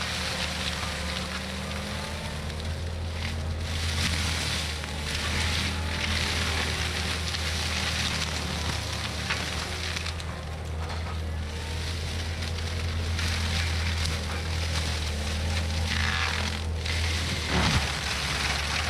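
Cat 259D compact track loader's diesel engine running steadily under load with a forestry mulcher head grinding brush, a constant low engine hum under a dense, hissing shred of wood. There is a brief louder moment near the end.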